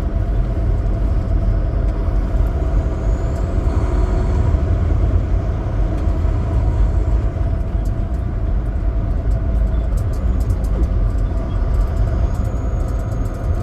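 Big rig semi truck under way: a steady diesel engine drone and road rumble, even in level throughout.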